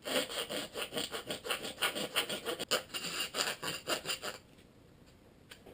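A chisel scraped rapidly back and forth to smooth the freshly cut edges of a headlight part, several quick rhythmic strokes a second, stopping about four and a half seconds in.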